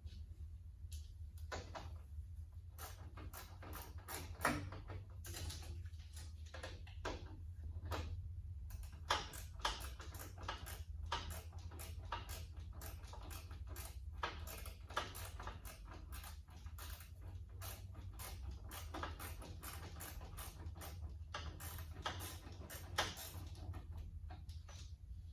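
Irregular clicks, clinks and knocks of hand tools and metal parts being handled during repair work on a tractor, with a few sharper knocks standing out, over a steady low hum.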